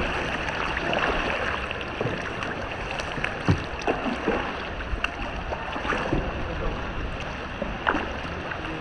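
Kayak paddling: paddle blades dipping and splashing in the water, with scattered short knocks and drips over a steady wash of water noise.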